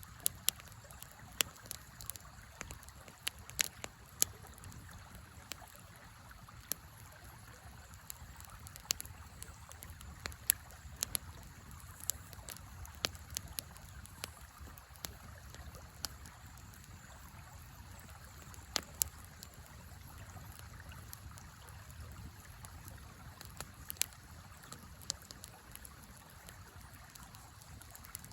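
Wood fire crackling, with sharp, irregular pops over the steady sound of a flowing river.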